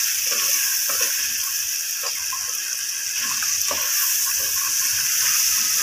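Mutton, tomatoes and spices frying in hot oil in a metal pot as the masala is stirred: a steady sizzling hiss with a few faint scrapes of the spoon against the pot.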